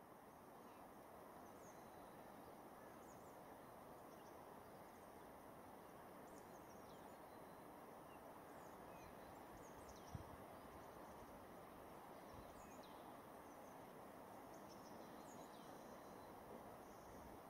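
Near-silent natural ambience: a steady soft hiss with faint, scattered high chirps from distant small birds, and one soft thump about ten seconds in.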